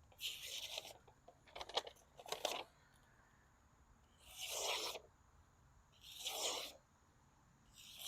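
A small O1 tool-steel puukko knife being dragged through a cut-test material under light pressure: four short slicing passes, the second with a few sharp ticks.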